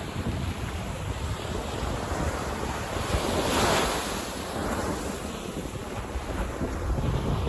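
Sea waves washing onto a beach, one wave swelling up and washing in loudest about halfway through, over a constant low rumble of surf. Wind buffets the microphone.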